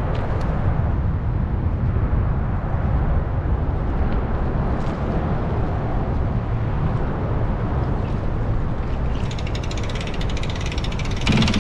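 Motorboat running on the water: a steady low engine and wind rumble. From about nine seconds in, a rapid run of fine clicks rises over it.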